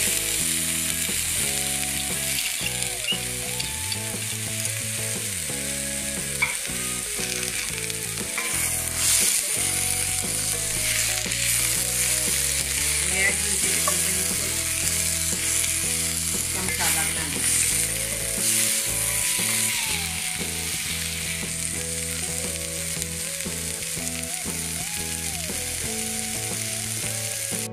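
Sliced onions, tomatoes and green chillies sizzling in a little oil in a frying pan, stirred with a wooden spatula that scrapes the pan now and then.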